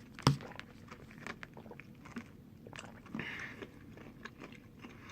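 A man crunching and chewing a few airplane peanuts, with one sharp crack about a third of a second in, then a run of small, irregular crunches.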